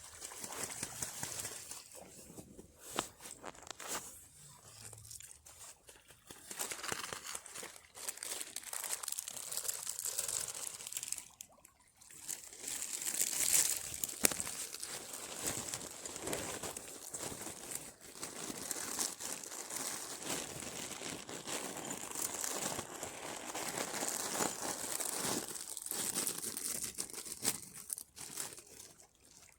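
Crisp packet crinkling and rustling as it is handled, a dense irregular crackle with brief pauses.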